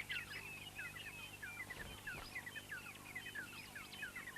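Small birds chirping, a dense run of short, quick high calls repeating throughout, over a faint low steady hum.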